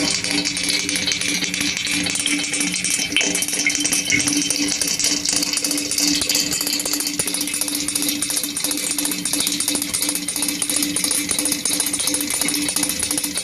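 Amplified feed from a microphone lowered into a borehole: a continuous dense crackling and rattling with a steady low hum underneath. It is presented as a recording of sounds from a suspected underground tunnel.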